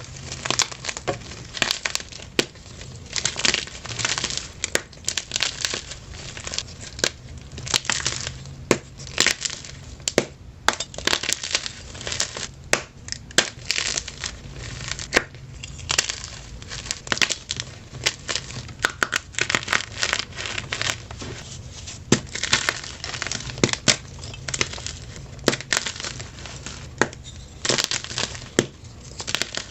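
Blocks of plain gym chalk crunched and crumbled by hand: a dense, irregular run of dry, crunchy crackles with short pauses, some crunches sharper and louder than the rest.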